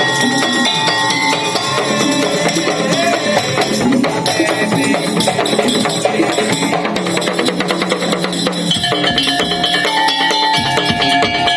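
Madurese tong-tong (daul) music: an ensemble of drums and wooden percussion playing a busy rhythm under melodic instruments, with the melody changing about nine seconds in.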